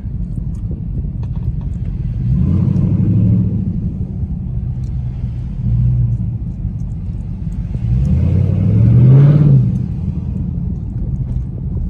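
Deep V8 exhaust rumble from muscle cars, swelling louder three times as engines rev, the last rev rising in pitch near the end.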